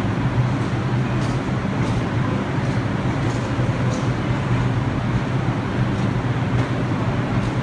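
R62 subway train at the terminal platform, a steady low rumble with faint clicks about one and a half times a second.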